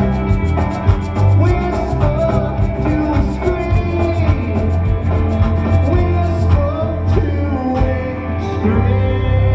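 Live rock band playing an instrumental passage: a heavy bass line and electric guitar over drums, with a cymbal ticking fast and evenly.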